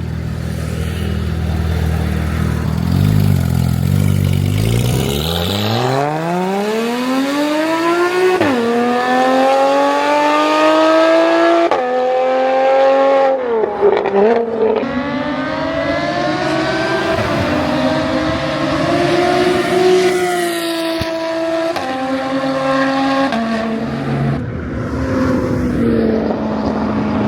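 Porsche Cayman converted to GT4 spec idling, then pulling away under hard acceleration. Its engine note climbs, drops at each of several upshifts and climbs again.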